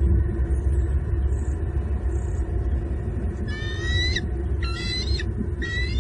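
Bald eagle calling three times from about halfway in: high, drawn-out calls roughly a second apart, over a steady low rumble.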